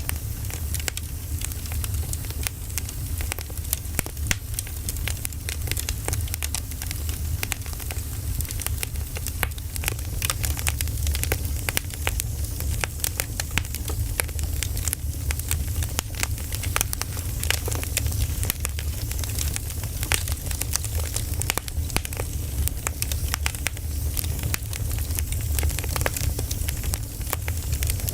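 Firewood burning, with many small sharp crackles and pops scattered irregularly over a steady low rumble.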